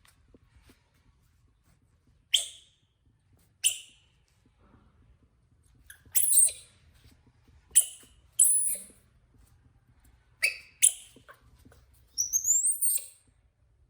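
Baby monkey giving short, high-pitched squeaky chirps, about seven separate calls spaced a second or more apart, then a longer warbling run of chirps near the end that sounds bird-like.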